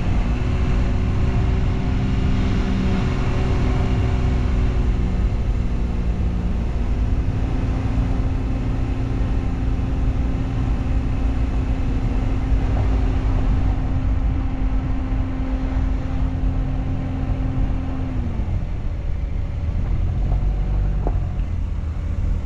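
Motorcycle engine running steadily under way, over a heavy low rumble. Its pitch shifts about a third of the way in, holds steady, then falls away near the end.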